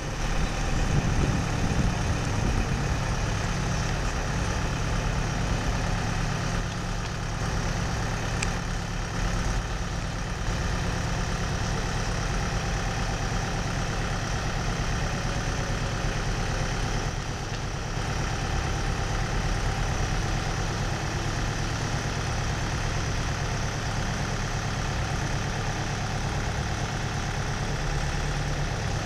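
Engine of a Charlatte CBL 2000D conveyor belt truck idling steadily.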